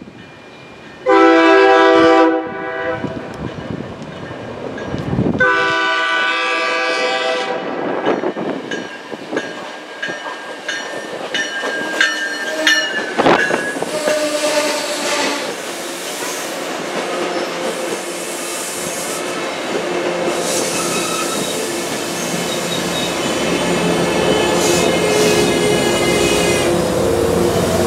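MBTA commuter rail train sounding two long horn blasts as it approaches, one about a second in and another a few seconds later. Its bi-level coaches then roll past the platform with wheels clicking over the rail and brief squeals as it slows into the station, and the train's sound grows steadily louder toward the end.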